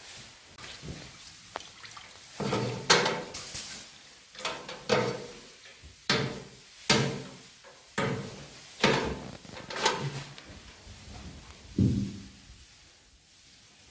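Paintbrush strokes of oil stain on wooden ceiling rafters: about ten separate strokes, each starting sharply and fading quickly, coming irregularly about once a second.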